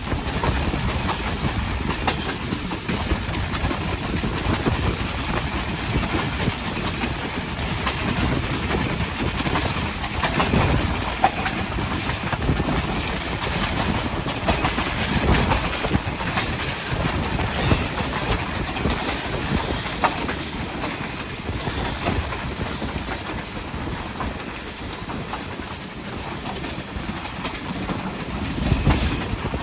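Pakistan Railways Hazara Express passenger train running, its wheels rumbling and clattering on the track. A thin, high wheel squeal holds for several seconds past the middle.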